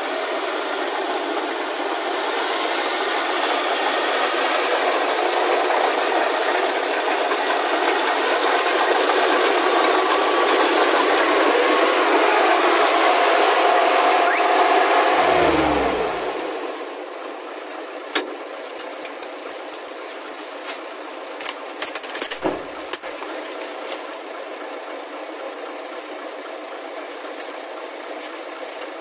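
Kubota rice combine harvester's engine running loudly, then a little over halfway through its pitch falls away and the sound drops to a much quieter steady running hum, with a few sharp clicks.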